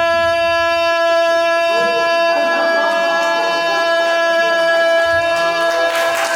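A long, steady held note with rich overtones, sounded as the father's morning call across the mountains in the story. Wavering pitched sounds join in about two seconds in, and a burst of noise comes near the end.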